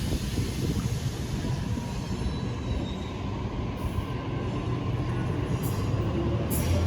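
Electric passenger train moving through the station: a steady rumble of wheels on the rails, with faint wheel squeal.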